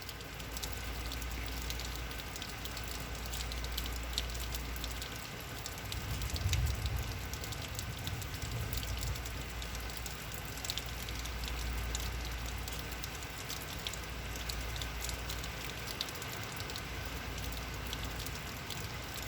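Heavy rain falling and pattering on surfaces in a steady hiss of many small drop-taps, with a low rumble of wind and a brief louder gust about six seconds in.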